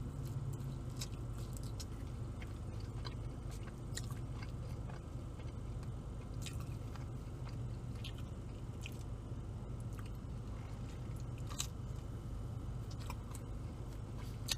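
Close-miked chewing and biting of BBQ chicken pizza, with small irregular mouth clicks over a steady low hum.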